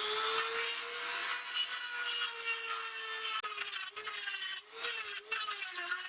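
High-speed electric power tool running and working against metal with a grinding, scraping noise. Its motor pitch sags and recovers repeatedly in the second half as it is pressed in and eased off.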